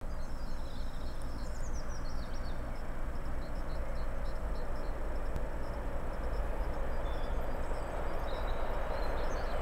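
Distant train approaching, its rumble slowly growing louder, with birds chirping early on.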